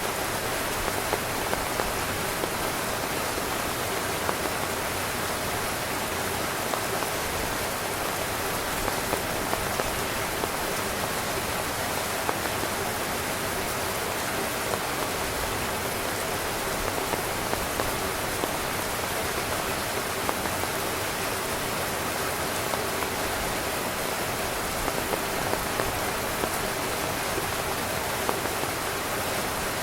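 Steady rain falling on a tent, an even hiss with louder single drops pattering through it.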